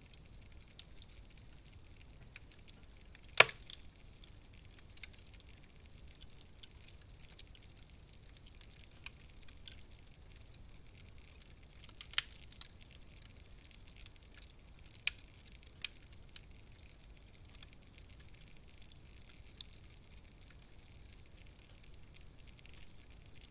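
Wood fire crackling in a fireplace: scattered sharp pops and snaps over a faint low hiss, the loudest pop about three seconds in.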